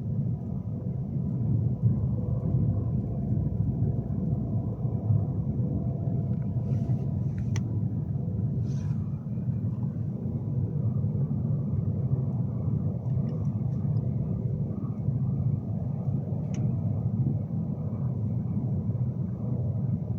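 Steady low rumble of a Class 390 Pendolino electric train running, heard from inside the carriage, with a few faint clicks.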